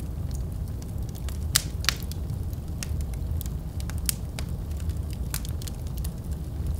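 Wood fire burning in a fireplace: a steady low rumble of flames with frequent sharp crackles and pops, two of the loudest about a second and a half in.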